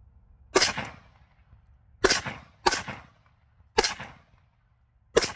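AK-pattern rifle firing five single shots at uneven spacing, each with a short trailing echo.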